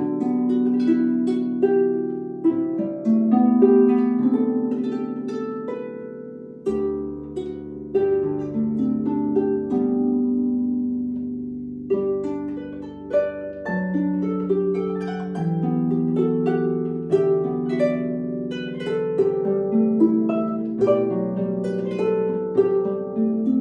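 Solo harp playing: plucked notes and chords ringing on, with a low bass note entering about seven seconds in and sounding underneath the rest of the passage.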